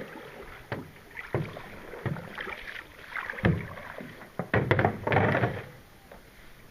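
Canoe paddling on the water: paddles splashing and knocking now and then against the canoe, with a louder stretch of splashing about four and a half seconds in.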